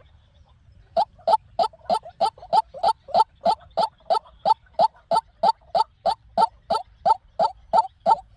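White-breasted waterhen calling: a fast, even series of short, harsh notes, about three to four a second, starting about a second in. This is the call used as a lure for trapping waterhens.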